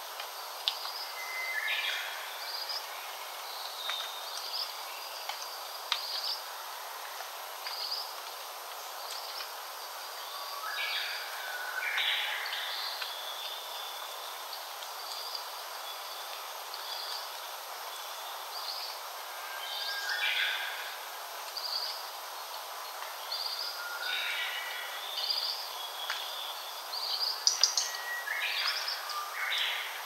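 Wild birds singing: a fuller song phrase every few seconds, with short high chirps between, over a steady background hiss. The loudest, busiest phrases come near the end.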